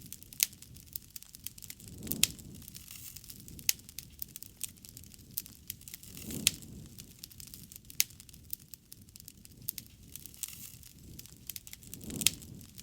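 Wood fire crackling, with sharp pops and snaps at irregular intervals. A soft low rush of flame swells up three times.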